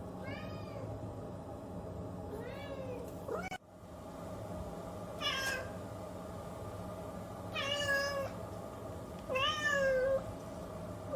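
A domestic cat meowing five times, each meow short with a rise and fall in pitch, spaced one to two seconds apart, over a steady low hum.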